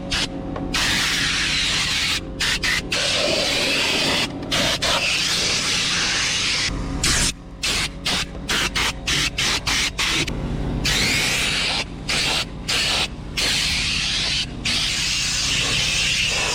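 Hissing pressurized spray from a detailing tool, triggered in repeated bursts that cut out briefly many times, over a low steady hum.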